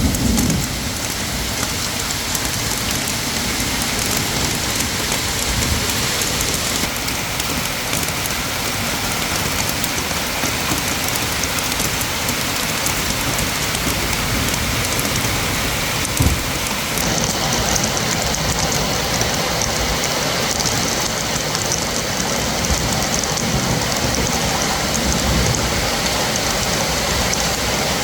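Heavy rain pouring down in a steady, dense hiss, which turns brighter and sharper about two-thirds of the way through, with a single knock just before that.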